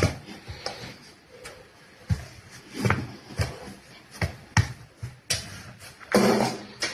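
A string of irregular knocks and thumps, about a dozen, with a louder half-second scuffing noise a little after six seconds in.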